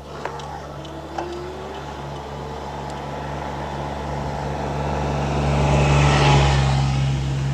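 Rush of wind and tyre noise from an electric bike being ridden on a paved path. It builds up and is loudest about six seconds in, over a steady low hum, with a few faint ticks near the start.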